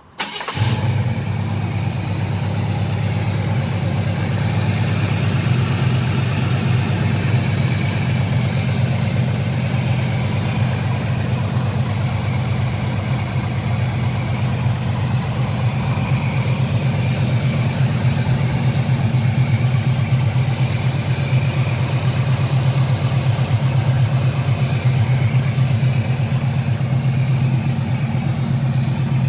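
1976 Camaro's 350 small-block V8 starting up: it fires about half a second in and settles straight into a steady idle.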